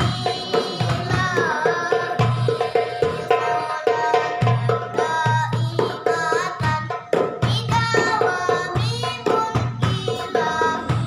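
Sholawat in the Banjari style: a boy's high-pitched voice singing a winding, ornamented melody over rebana frame drums beating a steady rhythm.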